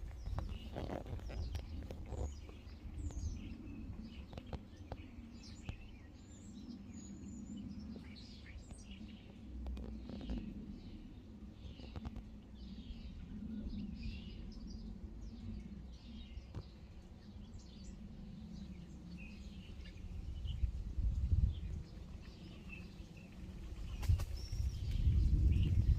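Many small birds chirping over a steady low rumble, which grows louder near the end.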